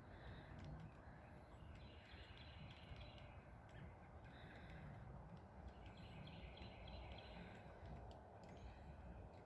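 Faint birds calling in short bouts every second or two over a low, steady outdoor rumble.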